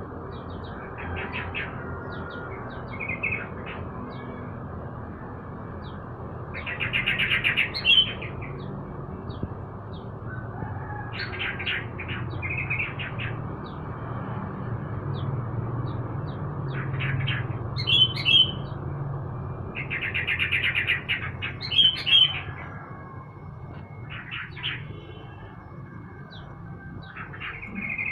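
Caged songbirds, among them a trucuk (yellow-vented bulbul), chirping in short calls and brief chattering phrases every second or two, over a low steady rumble.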